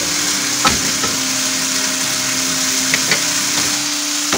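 Squid strips frying in butter in a pan, a loud steady sizzle with a few sharp clicks of a wooden spatula against the pan.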